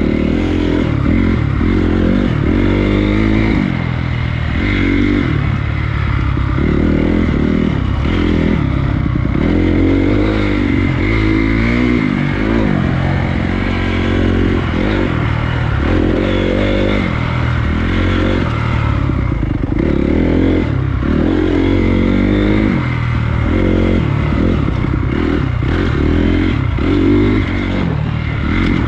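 Honda CRF250 dirt bike's single-cylinder four-stroke engine being ridden, its pitch climbing and dropping over and over as the throttle is opened and closed through the gears.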